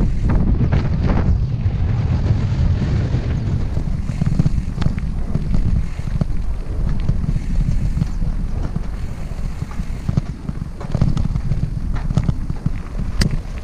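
Wind buffeting the camera microphone over the rumble and rattle of a hardtail mountain bike riding a dirt trail, with scattered clicks and knocks from the bike over bumps.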